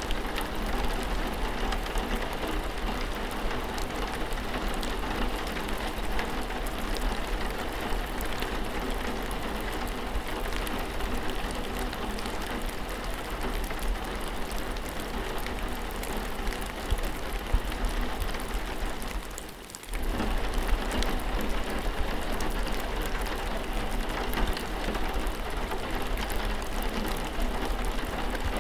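Steady rain falling, with a low steady hum underneath. About two-thirds of the way through, the sound briefly drops away and then returns.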